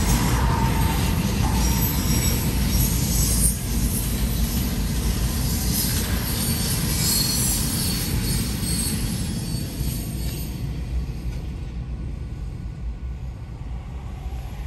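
Freight train cars rolling past, a steady rumble of steel wheels on rail with high-pitched wheel squeal over it. The sound fades over the last few seconds.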